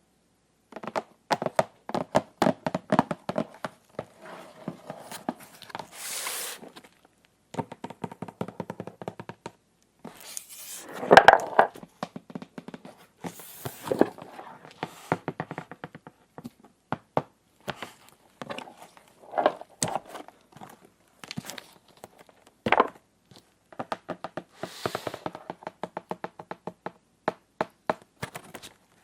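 Small plastic toy-kitchen pieces handled and tapped together in quick runs of clicks, with a few brief rustles and tears of packaging.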